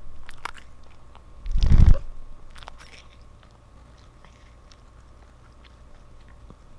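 Cat eating a Churu lickable treat: short wet clicks and smacks of licking and chewing, with one louder noisy burst about a second and a half in.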